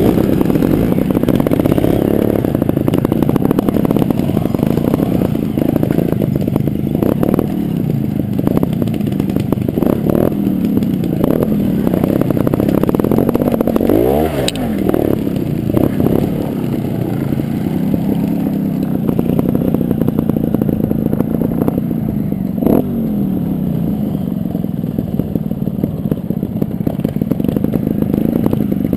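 Gas Gas TXT300 Raga trials bike's two-stroke single-cylinder engine being ridden, its revs rising and falling every few seconds. About halfway through the revs drop sharply and climb straight back, and a single sharp knock comes a little after three-quarters of the way in.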